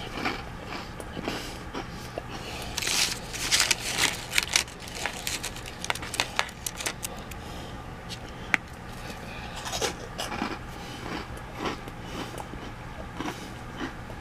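Crunchy Cheetos being bitten and chewed close to the microphone: irregular crisp crunches, thickest a few seconds in, then coming in scattered ones.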